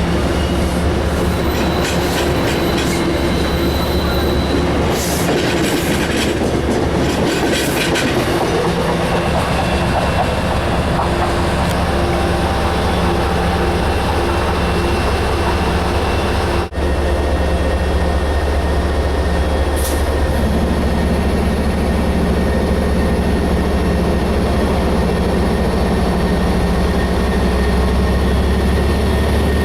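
Train running through, with a steady low hum from the locomotive over the noise of wheels rolling on the rails. The sound drops out for an instant about halfway through.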